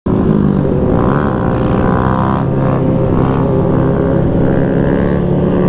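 Motorcycle engines running at a steady pace during a group ride, several engine notes layered together, holding level with small rises and dips in pitch. The sound cuts in suddenly right at the start.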